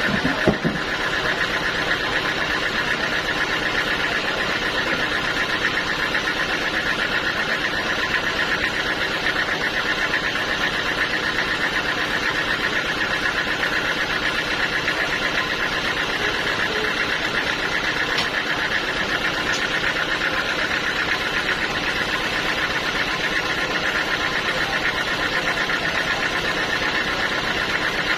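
Sawmill machinery running steadily with a fast, even mechanical pulse and no change in load.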